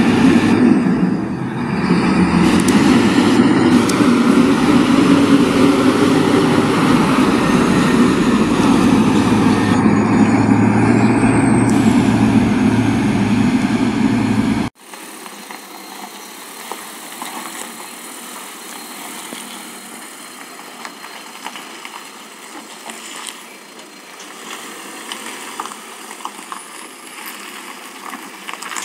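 Heavy MAZ-530927 fire truck's diesel engine running loud and close for about half the time. It then cuts off suddenly to a much quieter, thinner background with scattered small clicks.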